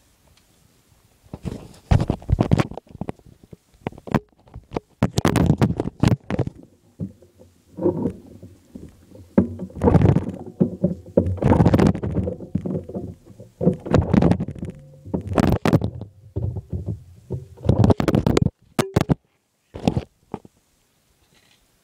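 Coolster 125 pit bike's single-cylinder engine being kicked over again and again with the kickstarter, chuffing through compression in irregular bursts with short pauses between kicks. It turns over but does not fire, as it has no spark from its failed magneto.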